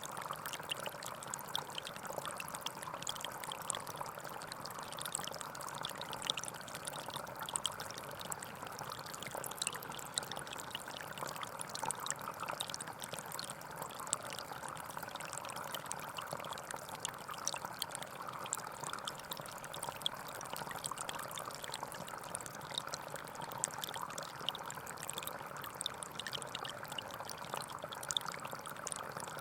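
Small forest stream flowing and trickling steadily, with a constant splashing rush and fine droplet sparkle over it.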